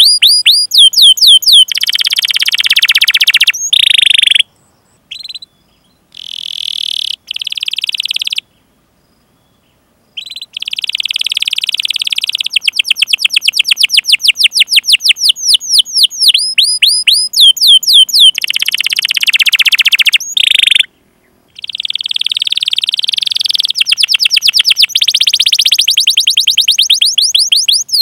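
A domestic canary singing loud, long rolled trills that alternate with series of quick sweeping "cuit cuit" call notes. The song breaks off abruptly into silence a few times and then starts again.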